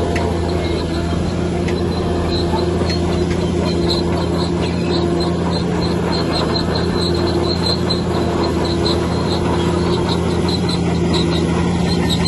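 Bulldozer's diesel engine running steadily under load, with a quick run of repeated high-pitched squeaks from its steel crawler tracks.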